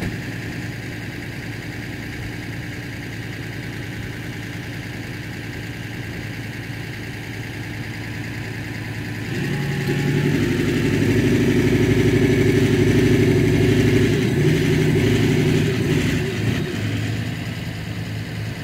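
Four-wheel-drive engine idling steadily, then working harder and louder under load from about nine seconds in for some seven seconds before easing back, as a vehicle on a recovery strap is towed back down a sand dune.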